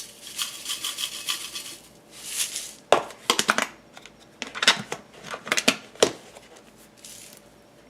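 Dry panko breadcrumbs pouring into a mixing bowl with a hiss, followed by a string of clinks and taps of kitchen utensils against the bowl.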